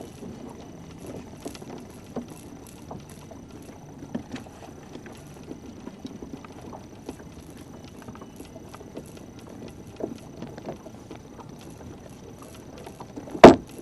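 Small fishing boat on the water: a low, even wash of water against the hull with scattered small knocks and a faint steady high whine, then one loud sharp knock near the end.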